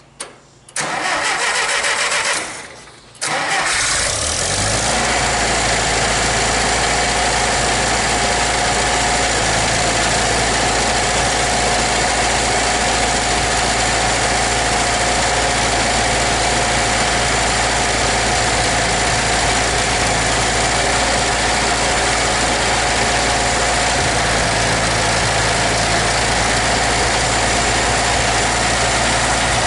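International 2444 tractor's spark-ignition engine being cranked by its starter in two tries, catching about four seconds in and then running steadily at idle, now with its carburetor cleaned and new points set.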